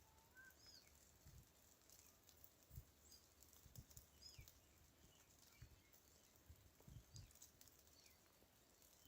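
Near silence: a few faint low thuds scattered through, and a few faint, short, high chirps that glide in pitch, mostly in the first half.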